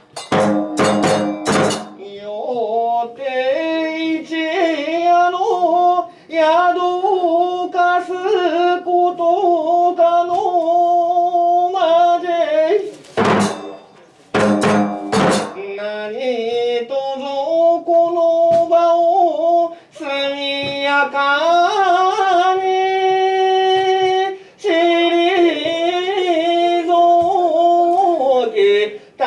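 Kagura music: a drawn-out chant in long, wavering held notes, with a few sharp drum or wood strikes at the start and again about halfway through.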